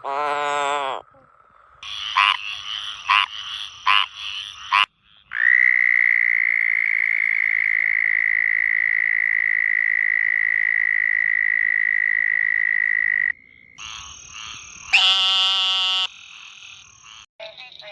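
Frog calls played one clip after another with abrupt changes between them: a short pulsed croak, then a few repeated calls, then one long, steady, even trill lasting about eight seconds, and another loud croaking call near the end.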